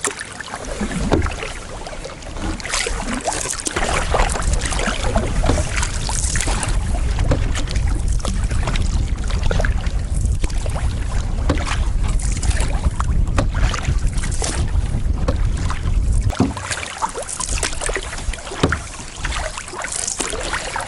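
Canoe paddle strokes splashing and dripping in lake water, irregularly repeated. Wind buffets the microphone with a heavy rumble from about four seconds in until a few seconds before the end.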